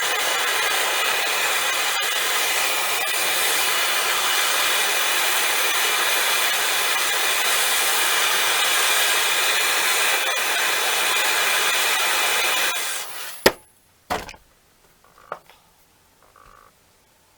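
A steady, loud hissing rasp that stops about thirteen seconds in, followed by a sharp click and a few faint light knocks.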